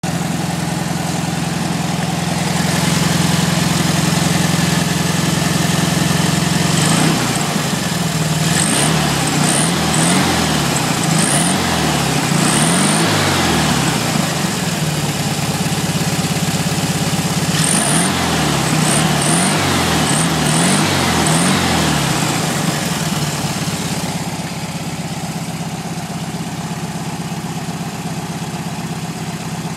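VW Beetle air-cooled flat-four engine idling steadily, then blipped up and down in quick revs in two spells, a few seconds apart. Near the end it drops back to a steady idle.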